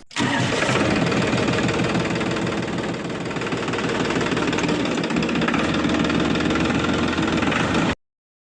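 Small motor of a home-made mini tractor running steadily with a fast, dense rattle, cutting off suddenly near the end.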